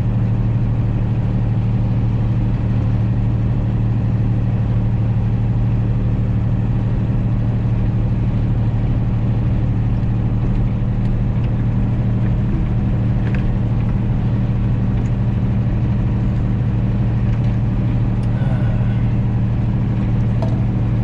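John Deere 3140 tractor's six-cylinder diesel engine running at a steady speed, a constant low drone with no revving.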